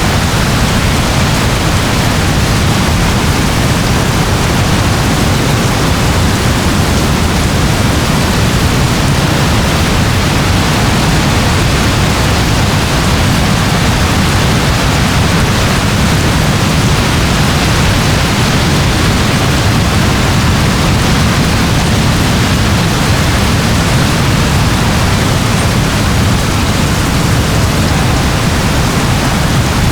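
Steady rain: an even, unbroken hiss that holds the same level throughout, with a low rumble underneath.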